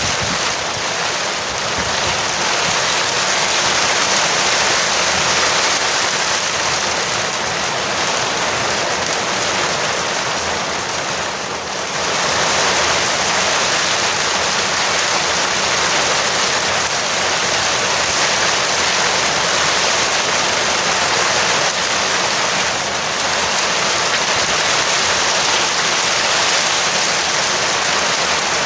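Heavy rain drumming steadily on a veranda roof, a dense hiss that eases briefly about twelve seconds in.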